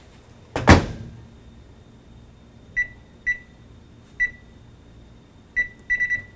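Microwave oven: a thud about a second in as the door is shut, then single keypad beeps spaced out over the next few seconds and a quick run of beeps near the end as a 70% power, 30-second setting is keyed in.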